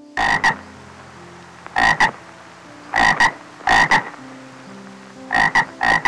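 An animal's short, loud, rasping calls, mostly in quick pairs, repeating about every second or two, over soft background music.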